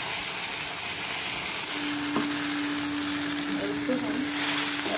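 Wet spice paste of garlic, ginger, dried chillies and cumin sizzling in hot oil with fried onions in a kadhai, stirred with a metal spatula. A steady low hum joins about two seconds in and stops near the end.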